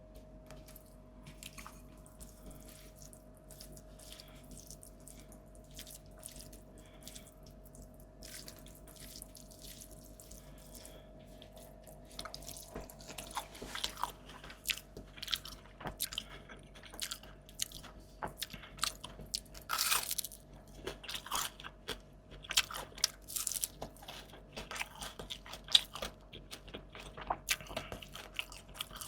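Close-miked eating: soft handling clicks for the first dozen seconds or so, then frequent crunchy bites and chewing of fried fish and raw vegetables. A faint steady hum runs underneath.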